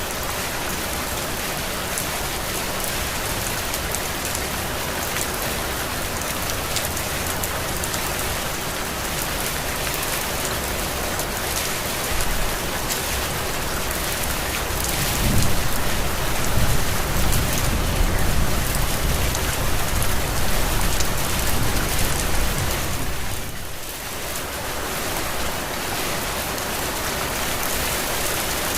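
Heavy rain falling steadily in a dense, even hiss. About halfway through a low rumble swells up and lasts some eight seconds, then fades with a brief drop in the rain's level.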